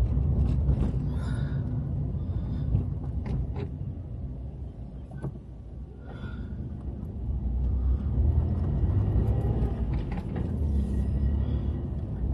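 Low engine and road rumble heard from inside a car's cabin while driving slowly through town. It drops away about five seconds in and builds again a couple of seconds later.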